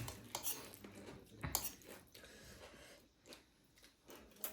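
Close-up eating sounds: chewing with a few short clicks and crunches, the loudest about a second and a half in.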